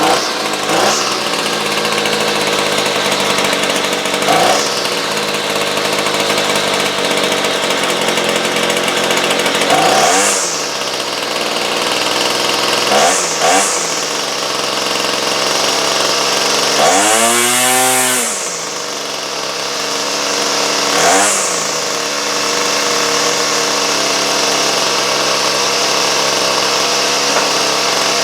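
Small two-stroke chainsaw engine running steadily at speed, its revs briefly rising and falling about six times, most strongly about two-thirds through. It is a cheap department-store saw just tuned to run well.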